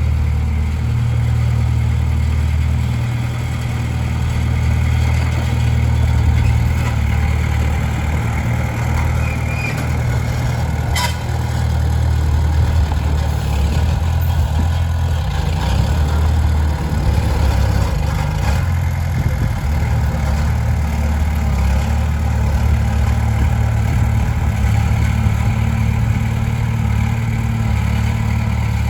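Komatsu D20P bulldozer's diesel engine running steadily, with a single sharp click about eleven seconds in.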